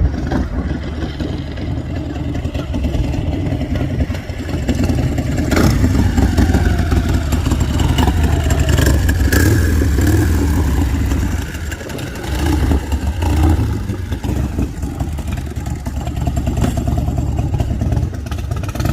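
Bourget custom motorcycle's V-twin engine running with a deep, loud rumble. It is revved up about five seconds in, eases off around twelve seconds, then picks up again.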